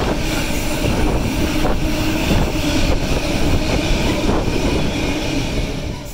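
Container freight train passing close by at speed: the steady rumble and rattle of its wagons on the rails, with a few sharp clacks from the wheels. It cuts off suddenly near the end.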